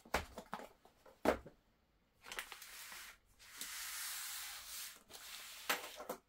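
A sharp knock on the tabletop, then a few seconds of crinkling rustle from a clear plastic parts bag being handled.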